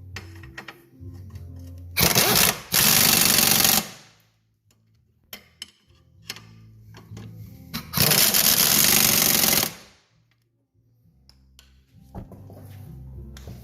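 A power tool run in two bursts of about two seconds each, with a rapid rattle, over background music with a plucked-string melody.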